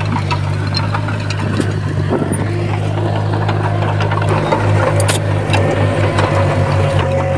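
Komatsu bulldozer's diesel engine running steadily, with scattered metallic clanks and rattles; for a couple of seconds past the middle the engine note pulses unevenly.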